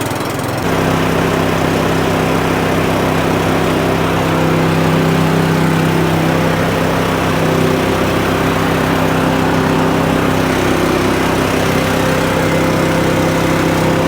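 A tractor engine running steadily. It gets louder about half a second in, then holds an even, unchanging note.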